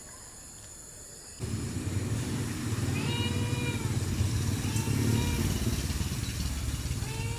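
A cat meowing repeatedly, three drawn-out meows, over a loud low rumble that starts suddenly about a second and a half in.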